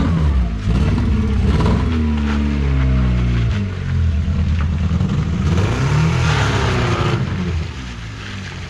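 Volkswagen Polo's engine being revved hard, its pitch rising and falling several times in quick succession. It then holds a steady lower note, climbs once more, and drops off near the end.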